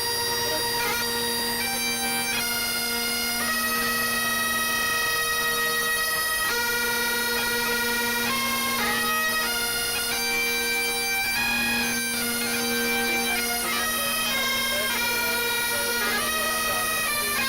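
Bagpipes playing a tune over steady, unbroken drones, the melody stepping from note to note above the held drone tones.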